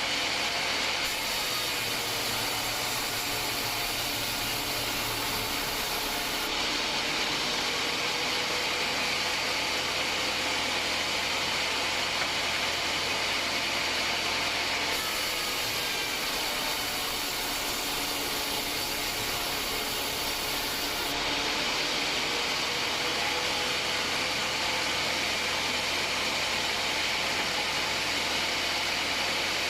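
Homemade band sawmill running, its blade cutting through a hard acacia log: a steady, loud machine noise with a hiss high in pitch. The tone shifts abruptly a few times.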